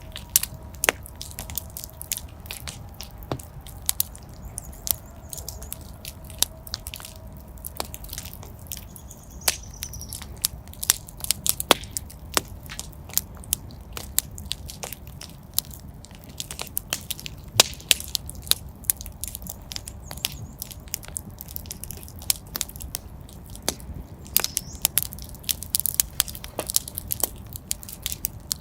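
Fire in a fireplace crackling, with frequent irregular sharp pops and snaps over a low steady rumble of the flames.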